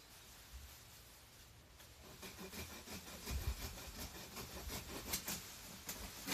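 Rustling and crackling of garden plants and debris being handled and cleared, a quick irregular run of snaps and rustles starting about two seconds in, with a few dull thumps.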